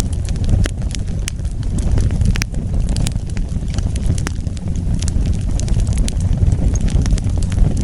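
Wood fire burning: a steady low rumble of the flames with frequent sharp crackles and pops scattered through it.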